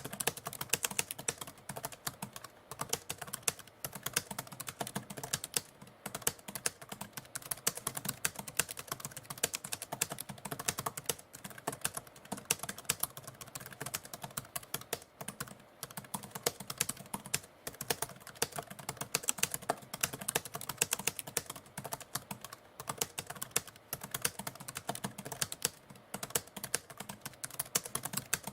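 Typewriter typing: a continuous, dense run of key strikes clacking at an uneven typing pace.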